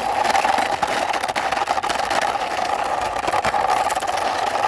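Toy truck rolled by hand across a surface: a steady whirring from its turning wheels, with a constant mid-pitched hum and many small clicks.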